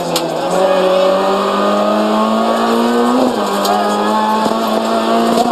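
Renault Clio RS rally car's 2.0-litre four-cylinder engine, heard from inside the cabin, pulling hard with its pitch climbing, a quick upshift about three seconds in, then climbing again in the next gear.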